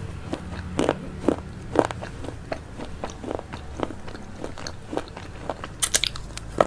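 Close-miked chewing and crunching of vegetable chowmein, short crisp crunches about two to three times a second, with a louder, sharper crunch near the end.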